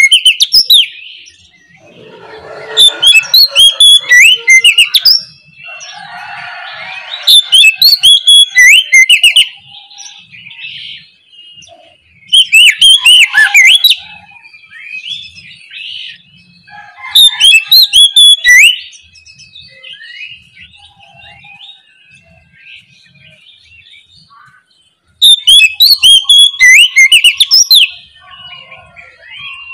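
Oriental magpie-robin (kacer) singing: about six loud bursts of a few seconds each, packed with rapid, varied whistles and trills, with quieter scattered calls between them.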